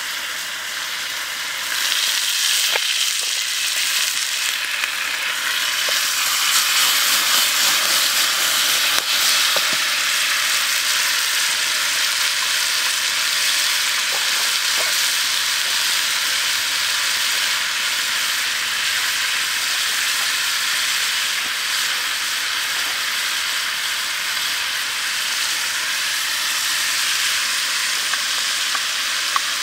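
Chopped frog pieces, garlic and chili sizzling steadily in hot oil in a metal pan, getting louder about two seconds in, with a few faint clicks.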